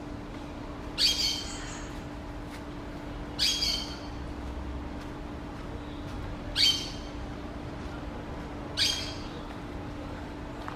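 A bird gives four short, harsh squawking calls, spaced about two seconds apart, over a faint steady low hum.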